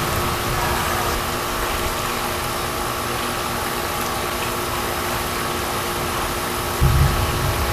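Steady machine hum with fixed tones over a faint hiss, and a short low rumble near the end.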